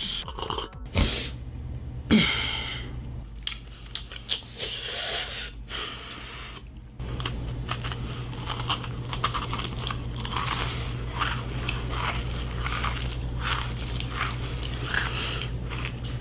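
Close crunching and crackling made of many quick clicks, over a steady low hum that comes in about seven seconds in; before it there are a few separate knocks and rustles.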